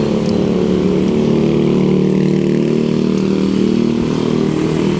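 Engine of a nearby motor vehicle in traffic, running with a steady low drone.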